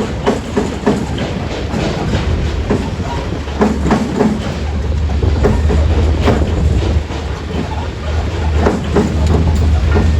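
Heavy diesel engine running steadily under load, with irregular metallic clanks and rattles throughout.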